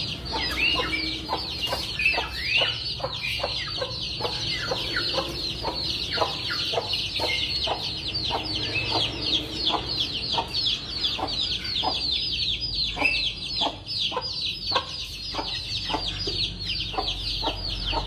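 A flock of ayam kampung (Indonesian native chickens) calling: many short high peeps overlapping several times a second, with scattered lower clucks.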